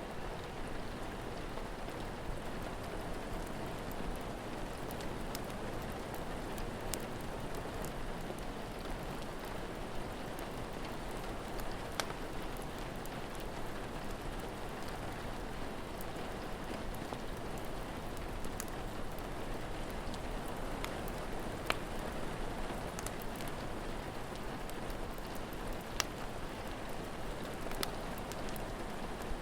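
Steady rain falling, with the odd sharp pop of a crackling wood fire about every few seconds.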